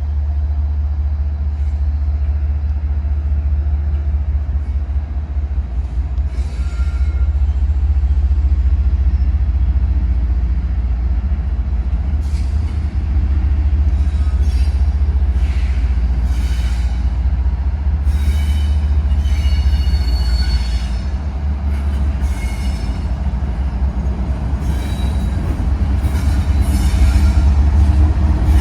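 Train cars rolling past with a steady, loud low rumble. From about twelve seconds in, short high-pitched wheel squeals come and go.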